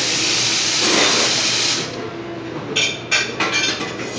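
Espresso machine steam hissing loudly, cutting off abruptly about two seconds in. A few sharp clinks of metal parts follow near the end.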